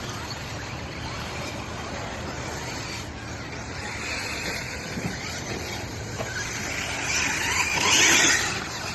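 Electric short-course RC trucks running on the track, their brushless motors whining over a steady noise of tyres and surface, swelling loudest about seven to eight seconds in.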